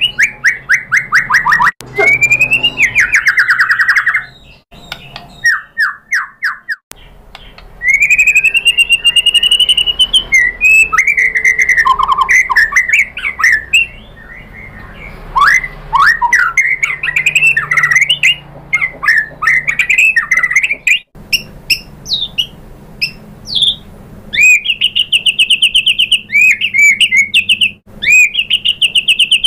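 White-rumped shama singing: fast runs of rapidly repeated chattering notes alternating with gliding whistled phrases, the song broken off abruptly several times.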